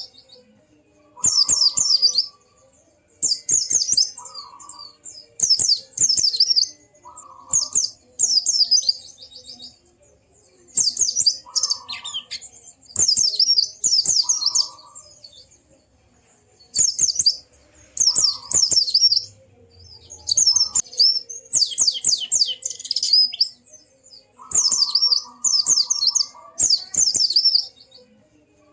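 White-eye (pleci) singing in fast, high chattering phrases, a burst every second or two, with a lower buzzy note under some of the phrases.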